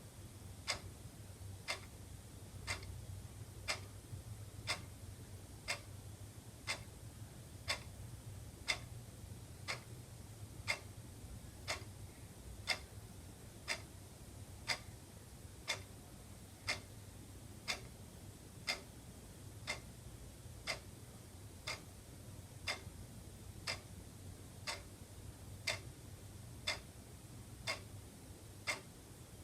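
Wall clock ticking steadily, about one tick a second, the ticks alternating slightly in strength, over a faint low hum.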